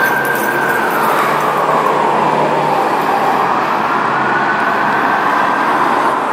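Federal Q2B mechanical siren on a fire apparatus, winding slowly down and back up in a long rise-and-fall wail, over the heavy truck's engine and road noise.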